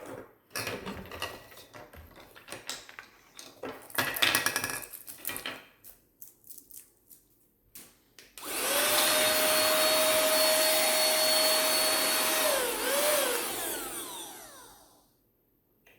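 Cordless handheld car vacuum cleaner switched on about eight seconds in. Its small motor runs with a steady whine and airflow hiss, the pitch dips and wavers briefly, and then it is switched off and winds down with a falling whine. It runs through an attachment that the owner thinks restricts the airflow too much; before it starts, there are clicks and knocks of its plastic parts being handled.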